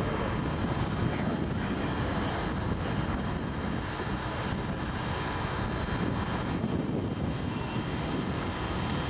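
Propeller engines of a P-51D Mustang and a B-25 Mitchell in flight, a steady drone: the Mustang's V12 Merlin and the Mitchell's twin radial engines.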